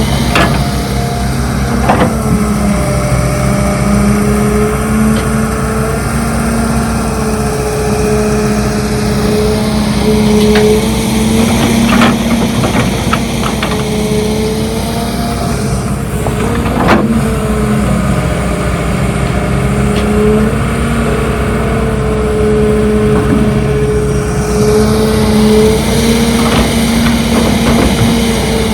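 Diesel engine of heavy earthmoving machinery running steadily, its pitch rising and falling a little with the load, with a few sharp metallic knocks now and then.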